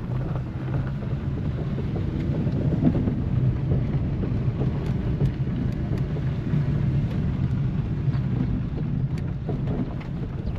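A vehicle's engine running steadily with road and wind noise, heard while riding along.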